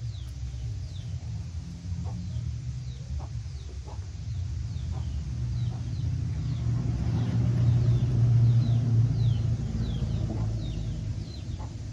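Young poultry peeping: many short, high, falling peeps repeated throughout, over a low rumble that swells and is loudest about two-thirds of the way through.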